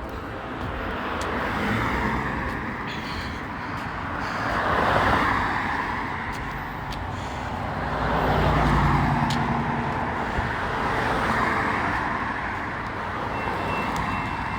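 Road traffic: vehicles passing one after another with tyre noise, each swelling and fading in turn. A heavier vehicle goes by about eight seconds in with a low engine drone.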